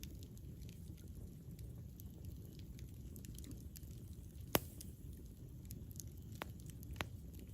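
Campfire burning: a steady low rumble with scattered sharp crackles and pops, the loudest about four and a half seconds in.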